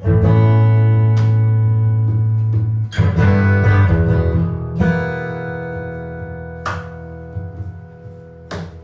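Improvised jazz guitar: a chord struck at the start rings out, fresh chords follow about three and five seconds in, and the sound fades toward the end. A few sharp clicks sound between the chords.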